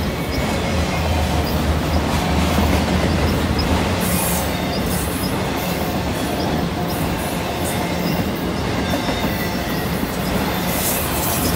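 Freight train of autorack cars rolling past: a steady rumble and rattle of steel wheels on the rails, with some wheel squeal.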